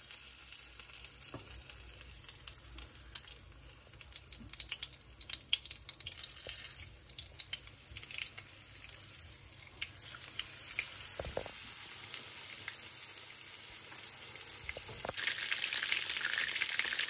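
Filled lavash triangles shallow-frying in plenty of oil in a frying pan: a steady sizzle full of small crackles that grows louder and steps up near the end, with a couple of dull knocks about two-thirds of the way through.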